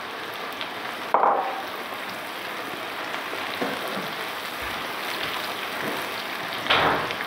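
Chopped onions and tomatoes sizzling steadily in oil in a non-stick pan. Two brief, louder noises stand out, about a second in and again near the end.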